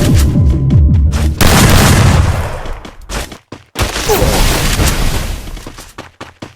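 Three loud booms in a row, about a second and a half and then two and a half seconds apart, each fading out slowly; the last one dies away near the end.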